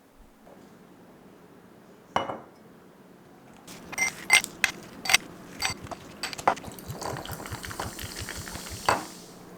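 Dishes and utensils clinking: a single clunk about two seconds in, then a run of sharp clinks and knocks from about four seconds, with a hiss that builds near the end.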